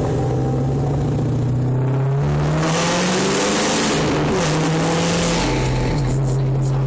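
2002 Mustang GT's 4.6-litre V8 with an off-road X-pipe and Magnaflow Magnapack cat-back exhaust, heard inside the cabin while driving. The revs climb under acceleration from about two seconds in, with a loud exhaust rush, then fall back and settle to a steady cruise for the last second or so.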